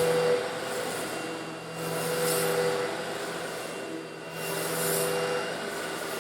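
Old Eureka vacuum cleaner running steadily while sucking up small coarse stone granules. Its motor hum holds steady, while a high hiss of granules rattling into the cleaner swells and fades about every two and a half seconds.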